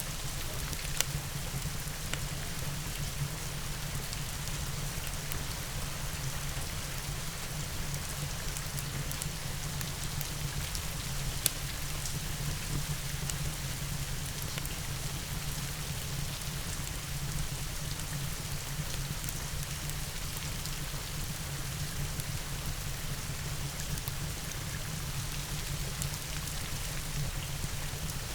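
Steady rain, with a few sharp pops from a crackling wood fire, the loudest about a second in and again near the middle.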